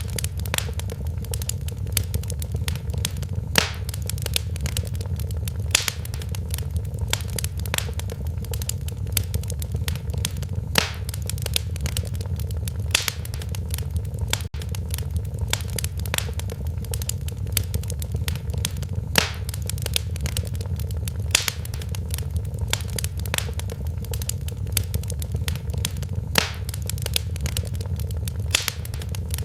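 Wood fire crackling in a fireplace: irregular sharp pops and snaps, several a second with louder ones every second or two, over a steady low rumble of the flames.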